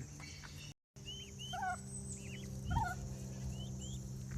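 Turkey giving a string of short, high yelps and clucks over a steady low hum.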